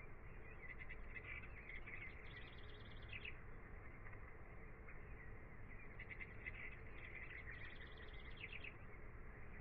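Faint birdsong: two phrases of quick repeated chirps, each a few seconds long and about five seconds apart, over a steady low hiss.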